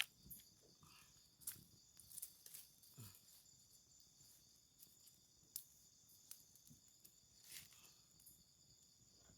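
Faint, steady chirring of insects in the forest, with scattered sharp clicks and snaps a few times over.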